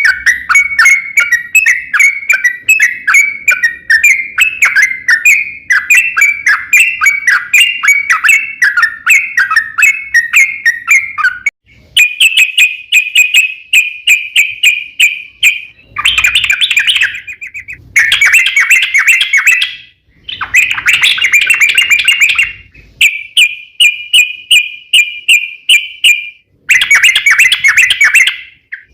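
Yellow-vented bulbul (trucukan) singing a long, rapid run of chattering notes. After about twelve seconds the song comes in shorter bursts that start and stop abruptly.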